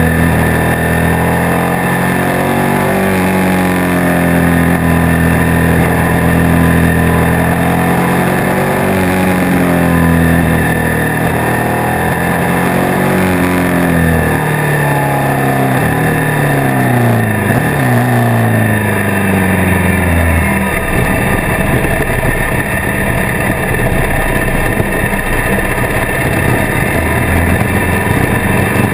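Motorcycle engine heard from onboard while riding, its pitch rising and falling with throttle and gear changes. About two-thirds of the way in the engine note drops away and a rough, steady noise takes over.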